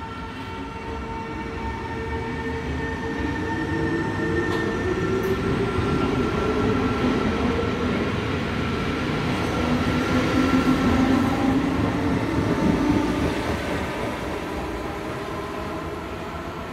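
NS SGMm Sprinter electric multiple unit going by: whining traction motors with tones that shift in pitch over a rumble of wheels on track. It grows louder toward the middle and fades near the end.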